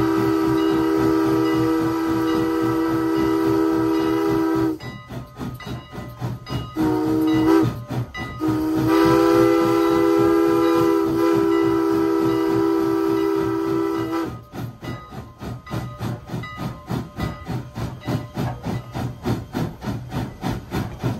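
Steam locomotive No. 89's chime whistle blowing a long blast that ends about five seconds in, then a short toot and another long blast, over the steady rhythmic chuffing of the engine working.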